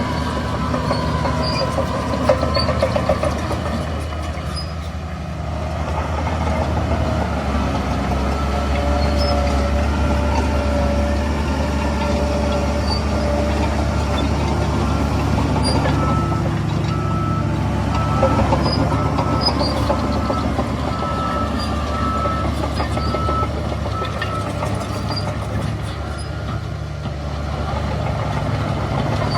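Engines of heavy construction machinery running steadily, with a repeated high beep joining in about halfway through.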